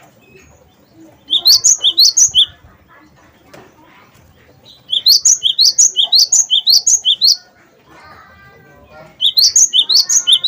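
Cinereous tit (gelatik batu) singing: three bouts of a fast, loud, repeated rising two-part note, each bout one to two seconds long and a few seconds apart. Softer twittering sounds in the gaps, most clearly just before the last bout.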